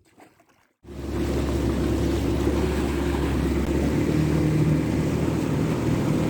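Motorboat engine running steadily as the boat travels, cutting in suddenly about a second in; its low note shifts slightly partway through.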